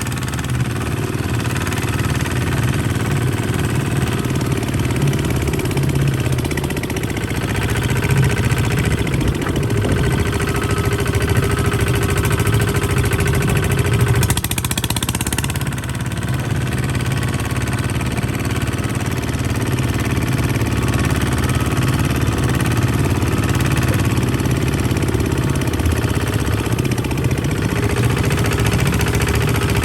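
Kubota RT140 DI tractor's single-cylinder diesel engine running steadily, with a rapid, even knock of its firing strokes.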